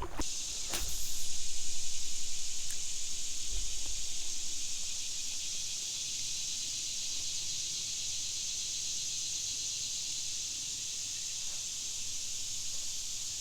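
A steady, shrill chorus of insects buzzing, loudest for a couple of seconds near the start, then settling to an even drone.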